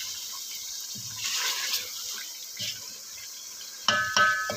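Chicken frying in a wet masala, a soft sizzle and bubbling as it is stirred with a wooden spoon, with a few knocks of the spoon against the metal pot near the end.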